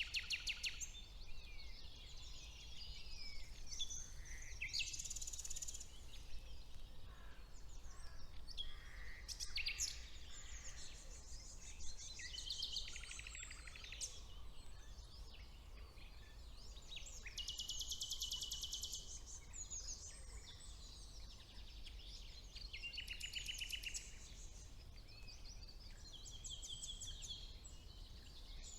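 Several songbirds singing together in spring woodland, among them a common nightingale, in overlapping phrases with rapid trills of repeated notes. Underneath is a faint steady low rumble.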